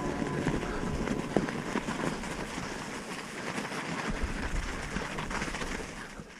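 Mountain bike riding noise on a wet trail: a steady rush of tyres rolling, with many small clicks and rattles. It fades out near the end.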